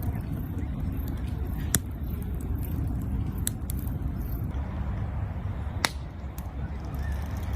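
Steady low rumble with a few sharp cracks, two louder ones about two and six seconds in.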